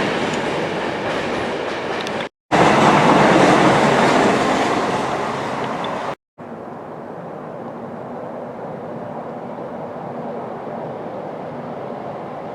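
A train passing on the line: a steady noise of wheels on rail, broken by two brief silent gaps about two and six seconds in. After the second gap it goes on quieter and duller.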